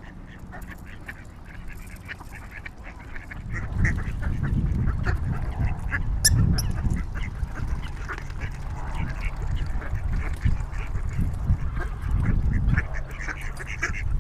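Waterfowl calling repeatedly on a lake: many short honks and quacks from several birds. From about four seconds in until near the end, a loud, uneven low rumble runs underneath the calls.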